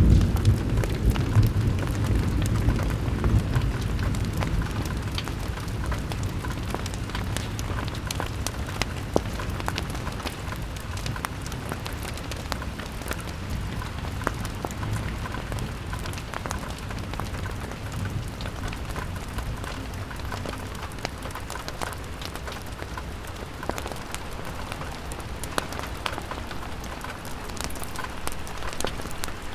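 Rain pattering on a window with scattered sharp ticks of drops, under a low rumble of wind that dies away over the first few seconds.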